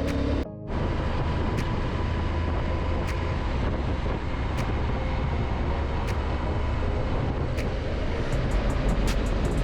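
Honda Africa Twin motorcycle on the move: a steady engine drone with a low rumble and wind noise. The sound drops out briefly about half a second in.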